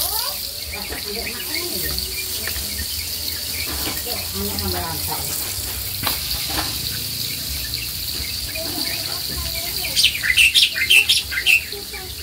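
Tomato sambal sizzling steadily as it fries in a wok. A bird breaks in with a quick run of loud, sharp chirps about ten seconds in.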